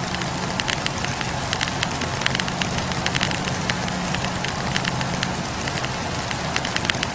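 Wood fire crackling, with quick irregular pops and snaps over the steady low rush of the flames.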